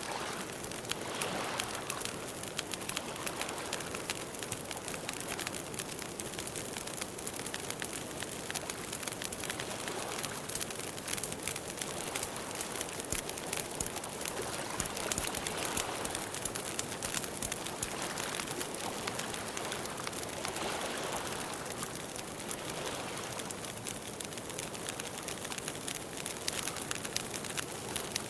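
Campfire burning with a steady, dense crackle of small pops and soft swells of flame noise every few seconds.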